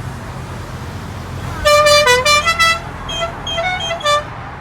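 A musical car horn plays a short tune of about ten quick notes at changing pitches, starting a bit over a second in, over the low rumble of a car engine.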